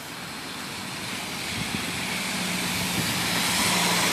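City bus approaching: a steady rush of engine and tyre noise that grows louder, with a low steady engine hum coming in about a second and a half in.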